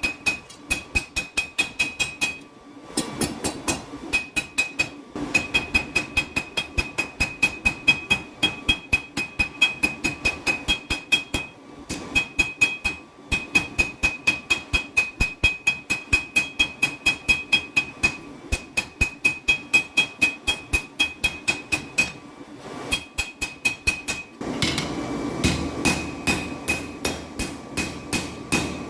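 Hand hammer forging steel on an anvil, a rapid run of ringing blows about three a second, with short pauses between runs. Near the end a steady rushing noise comes in under the blows.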